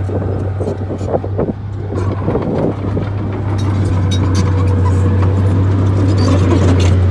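Bulldozer's diesel engine running steadily under load, with a stream of metallic clanks and rattles from the machine through most of it.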